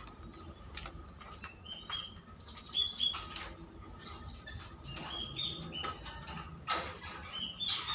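Small birds chirping in short high notes, mixed with the clicks and knocks of wire cages being handled.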